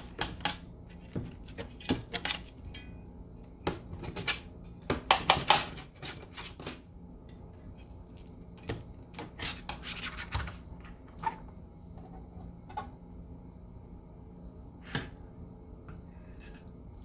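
Metal utensils clinking and scraping against dishes in scattered bursts, busiest about five seconds in and again around ten seconds, with a single click near the end. A faint steady hum runs underneath.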